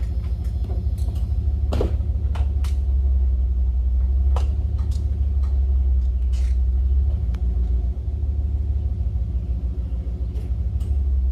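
An engine running steadily at low revs, a deep rumble, with a few sharp knocks in the first half.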